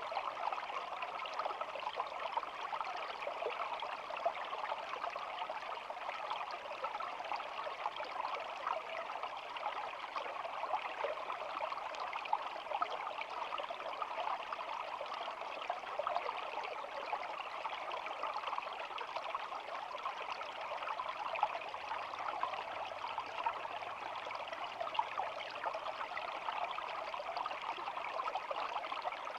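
Shallow stream babbling steadily over stones, a dense, even wash of small splashes and trickles.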